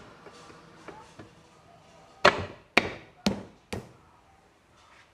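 Four sharp hammer blows about half a second apart, tapping a motorcycle engine's clutch cover into place, the first the loudest; a few light clicks of parts being handled before them.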